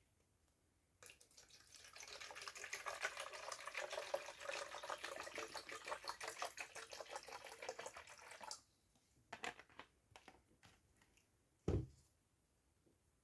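A crackling hiss for about seven seconds, then a few light clicks and a single sharp balloon pop near the end.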